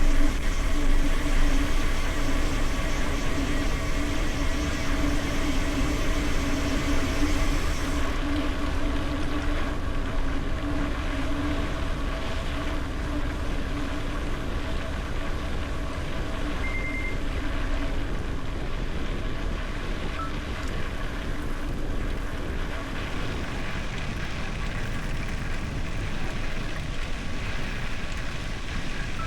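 Wind rushing over the microphone and tyre rumble of a bicycle riding at speed, with a steady hum that fades out about two-thirds of the way through.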